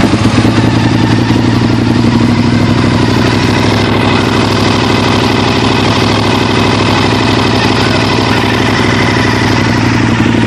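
2002 Honda RC51's 90-degree V-twin idling steadily through a twin-pipe Yoshimura exhaust, freshly started.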